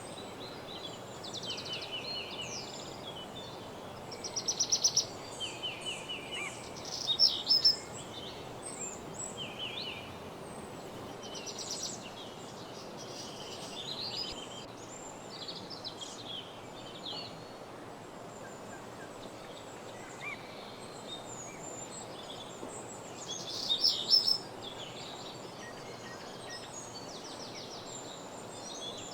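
Woodland songbirds singing a dawn chorus of overlapping chirps and short phrases. Several loud, fast trills of rapidly repeated notes stand out, a few seconds in and again near the end, over a steady background hiss.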